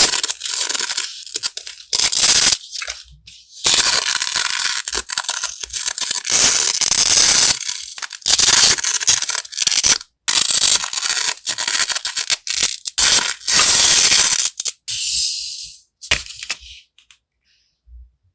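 Plastic and paper packaging crinkling, rustling and tearing as stationery is unwrapped by hand. It comes in loud bursts with short pauses and scattered clicks, and dies away near the end.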